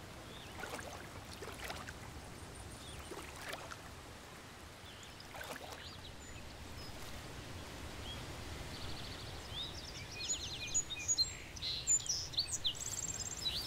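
Faint outdoor ambience with small birds chirping and giving fast trills, which come in about two-thirds of the way through and grow busier and louder near the end.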